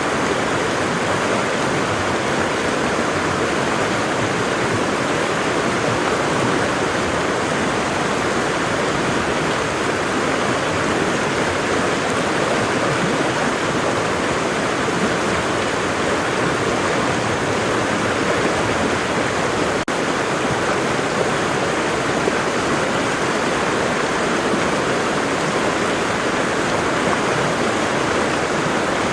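Waterfall: the steady, even rush of falling water, with one momentary dropout about twenty seconds in.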